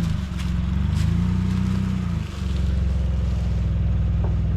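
Truck engine running at low speed while the vehicle is maneuvered off-road. Its note rises and falls with the throttle, with a brief dip about two seconds in, then holds steady.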